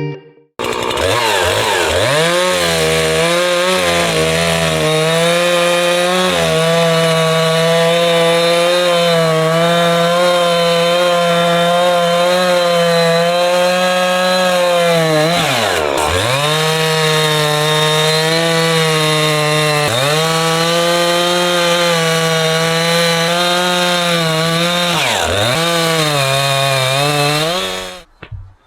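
A chainsaw running hard at high revs. Its pitch dips sharply and recovers three times in the second half, then it cuts off abruptly near the end.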